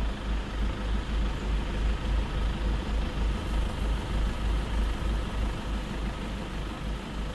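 Safari vehicle's engine idling steadily, a low pulsing rumble with a faint steady hum above it.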